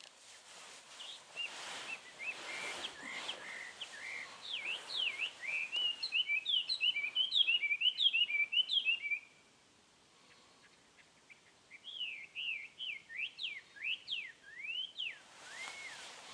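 A songbird singing: quick runs of high chirping and trilling notes in two bouts, with a pause of about two seconds in between.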